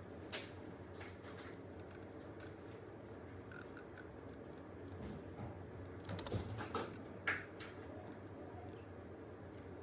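Computer keyboard keystrokes: scattered clicks over a steady low background hum, with a short cluster of louder strokes a little past the middle.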